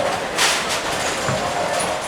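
Bowling alley din: balls rolling down the lanes with a steady rumble, and a sharp clatter about half a second in.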